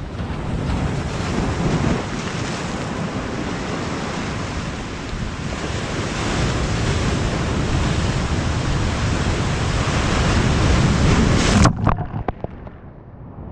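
Strong wind on the microphone over sea surf on a rocky shore, as one dense, steady rush. It cuts off abruptly near the end, leaving a few clicks and fainter surf.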